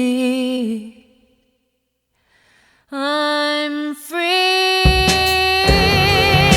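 Song with a solo singer holding long notes. The voice fades out about a second in, and after a gap of near silence it returns with more held notes. Full instrumental accompaniment with a beat comes in about five seconds in.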